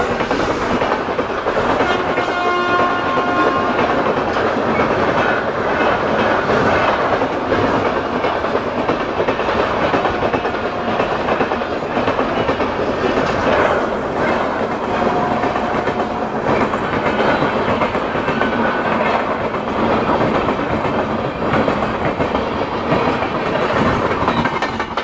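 Rajdhani Express passenger coaches rushing past at speed close by, wheels clattering over rail joints in a steady roar. A horn note sounds briefly about two seconds in.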